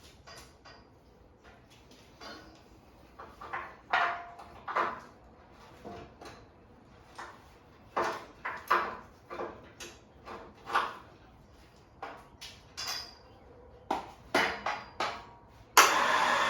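Irregular knocks and clanks of things being handled and set down, some sharp and loud. Near the end a loud steady machine noise starts abruptly.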